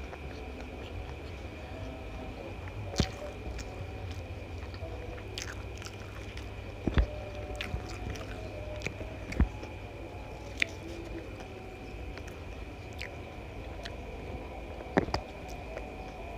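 Close-miked chewing and eating: a person chewing spicy fried rice vermicelli and other food taken by hand. A few sharp clicks stand out over a steady low hum.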